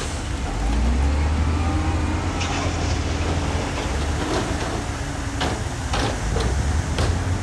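Heavy diesel earthmoving machinery running with a steady low rumble, with several sharp knocks and clanks partway through.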